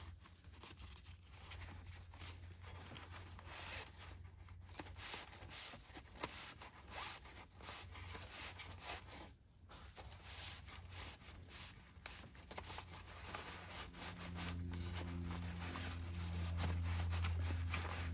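Rustling, rubbing and scraping of hands working a plastic oil-filter catch bib and rag around an aircraft engine's spin-on oil filter, with many small clicks. About fourteen seconds in, a steady low hum comes in and grows louder.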